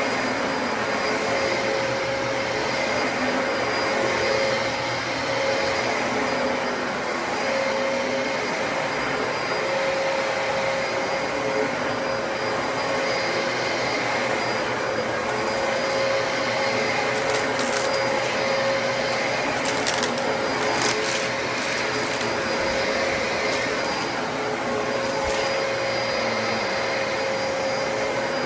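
Dyson DC33 upright bagless vacuum cleaner running steadily, a motor whine over a constant airflow hiss, with a few brief crackles about two-thirds of the way through.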